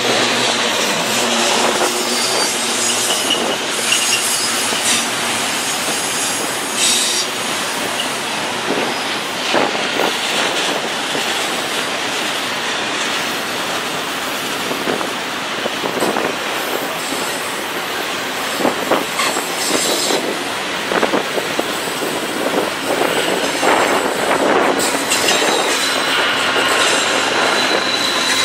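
Freight train cars rolling past, with wheels squealing on the curving track and a steady rumble and clatter. A thin high squeal stands out near the end.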